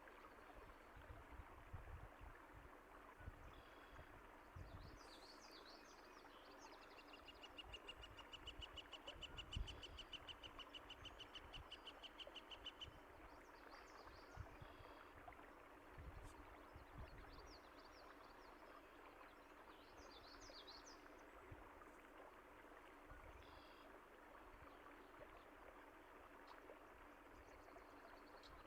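Small birds chirping over the steady rush of a stream, with one fast trill of evenly repeated notes lasting about six seconds in the middle.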